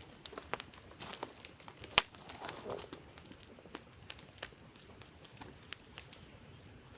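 Wood campfire crackling, with irregular sharp pops and one loud snap about two seconds in.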